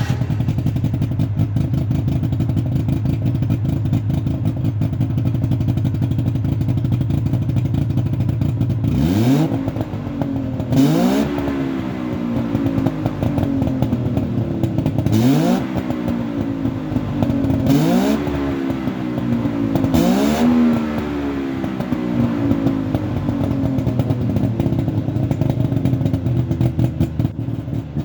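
Suzuki Carry ST20's LJ50 two-stroke three-cylinder engine, fitted with a Nikaido expansion-chamber exhaust, idling warm. From about a third of the way in it is revved in about five quick throttle blips, each rising and falling in pitch, then settles back to idle.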